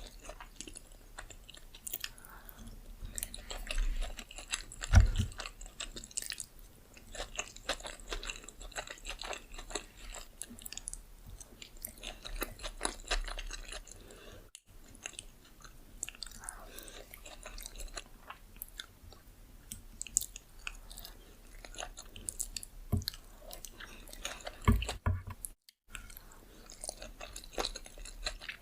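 Close-miked chewing of sushi, a steady run of wet, crackly mouth clicks, with two louder low thumps, about five seconds in and near the end.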